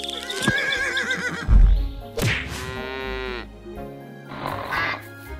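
A horse whinnying over background music, with a low thump about a second and a half in.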